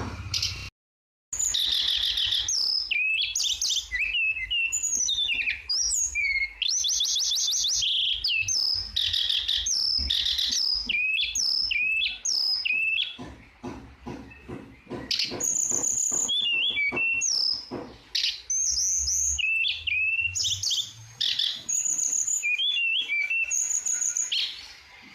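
Tledekan songbird singing a continuous, varied song of quick chirps, downslurred whistles and short rapid trills, starting after a sudden moment of silence about a second in.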